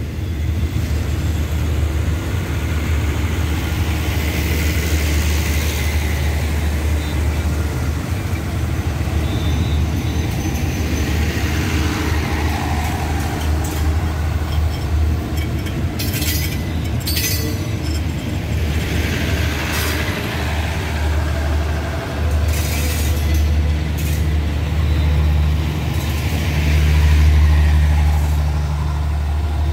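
Passenger train coaches rolling past at close range: a steady low rumble of wheels on the rails, with a few short sharp high bursts about halfway through.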